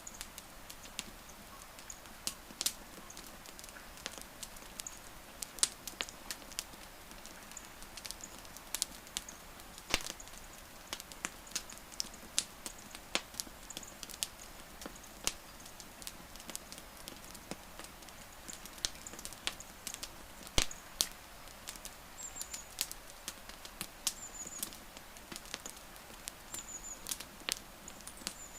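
Wood campfire crackling, with irregular sharp pops and snaps over a soft steady hiss. Near the end a bird chirps faintly several times, high and short.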